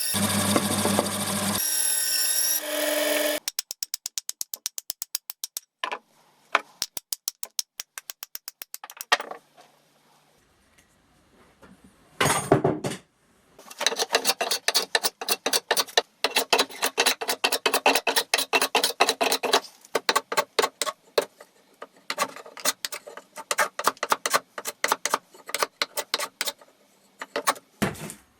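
A power tool runs for about three seconds and stops. Then come long runs of quick back-and-forth rubbing strokes, several a second, broken by short pauses: hand abrasive work on the rusty axe, scouring or filing it.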